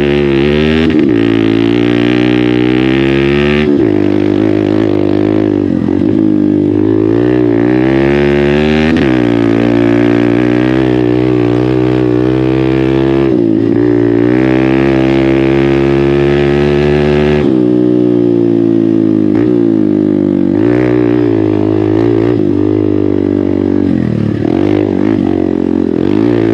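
Hero Xpulse 200's single-cylinder engine running through an MW Performance aftermarket exhaust while riding. It revs up and eases off again and again, the pitch climbing and then dropping at each gear change or throttle lift, several times over.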